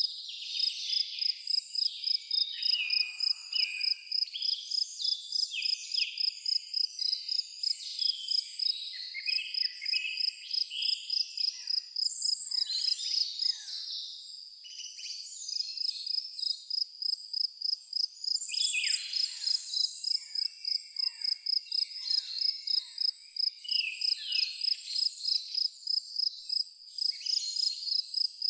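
Insects, cricket-like, chirping in a steady, evenly pulsed high trill, with birds calling and chirping over it. The birds give a run of short falling calls about two-thirds of the way through.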